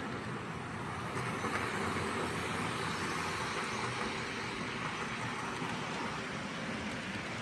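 H0 scale model trains running on DC track: a steady whirr of small electric locomotive motors and wheels rolling on the rails, a little louder for a few seconds near the start, as a train passes closest.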